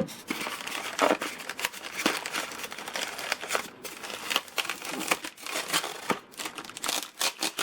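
Packaging being handled and opened: dense, irregular crinkling and rustling as the box's contents are unpacked.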